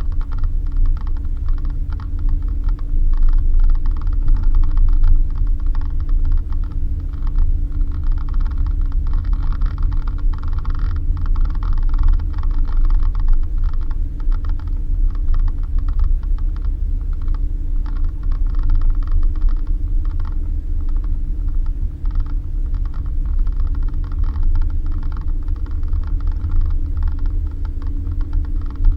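Suzuki Jimny driving on a rough dirt road: a steady low engine drone with a constant, irregular clatter of rattles and creaks from the vehicle.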